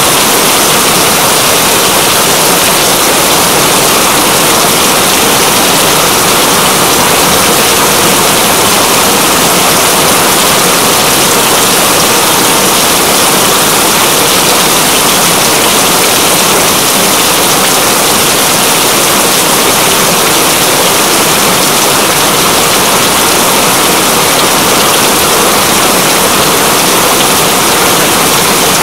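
Steady, loud rain: an even, unbroken hiss of falling rain with no distinct drops or pauses.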